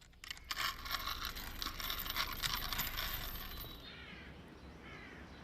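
Clinking, rattling clatter of the strapped-on plates and hand weights of a makeshift exoskeleton as it is braced and the weights are lifted, lasting about three and a half seconds. Then a bird calls a few times, about once a second, in short falling calls.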